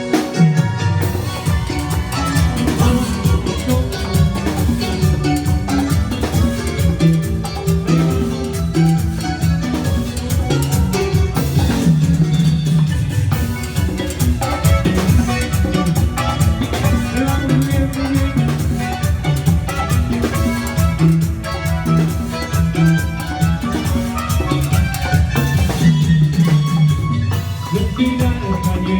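A band playing upbeat Latin dance music, with a steady bass line under busy percussion.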